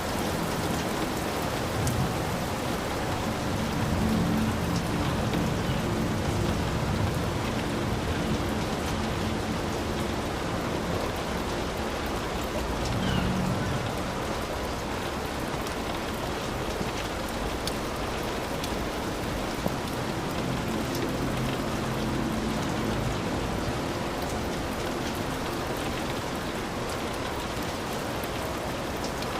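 Heavy rain falling steadily on a hut in a rainforest, a dense even hiss of drops. Low thunder rumbles roll in three times, the strongest near the start.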